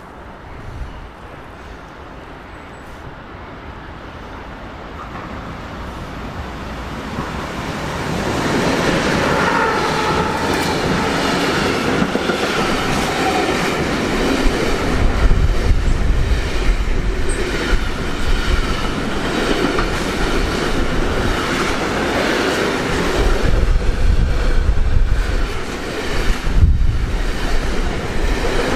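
Electric-hauled intermodal freight train approaching and passing close by, growing louder over the first eight seconds. The container and swap-body wagons then roll past with a steady rumble, wheels clattering over the rail joints and a high squeal from the wheels at times.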